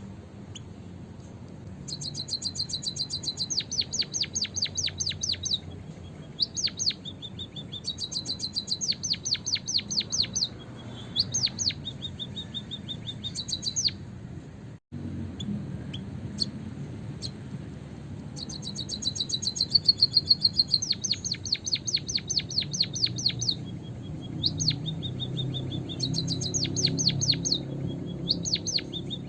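White-headed munias (emprit kaji) calling: bursts of rapid, high chirps lasting a few seconds each, with short gaps between them, used as a lure call for trapping. The sound cuts out for an instant about halfway through.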